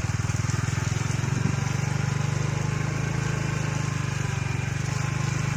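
Motorcycle engine running at a steady speed, heard from on board while riding, with an even rapid pulsing.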